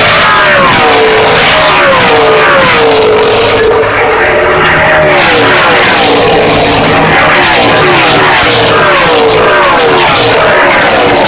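A string of NASCAR race trucks passing at full speed one after another, each V8 engine's pitch dropping as it goes by.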